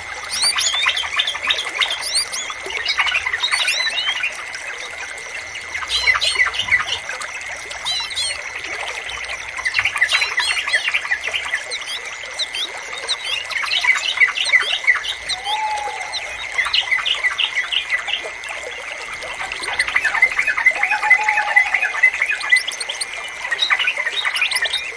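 Yellow-vented bulbuls singing among a busy chorus of other small songbirds: bursts of rapid chirps and bubbly phrases every few seconds, with a few lower slurred calls. A steady high-pitched tone runs underneath.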